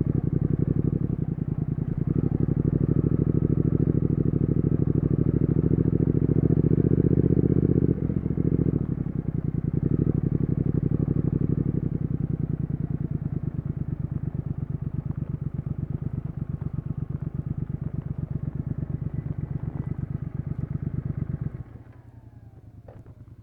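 Triumph Speed Twin 1200's 1200 cc parallel-twin engine running through its exhaust, a dense, even pulsing, with a brief dip about eight seconds in and a gradual fade after. Near the end the level drops sharply to a much quieter pulsing.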